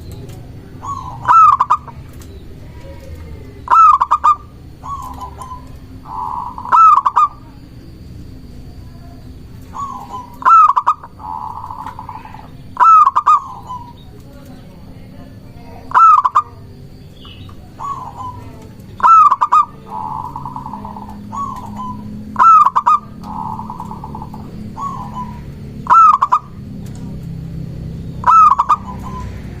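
Zebra dove (perkutut) singing: loud, clipped cooing notes repeated every two to three seconds, several followed by a softer rolling trill.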